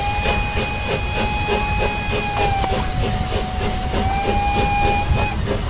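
A train running with a low rumble and a regular chugging beat of about four strokes a second. Its whistle blows one long blast, then after a short gap a second, shorter one.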